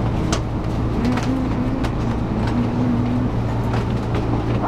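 Steady low rumble of a Shinkansen bullet train, with scattered faint clicks.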